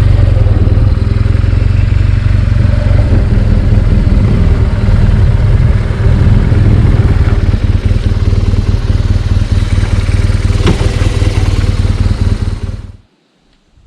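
Adventure motorcycle riding along, its engine running steadily under a loud low rumble. It cuts off abruptly near the end.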